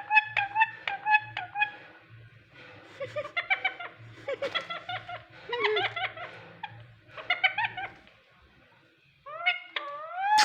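Pet parrot whistling and chattering: a quick run of short repeated notes, then varied, gliding warbling calls. It pauses briefly near the end before calling again.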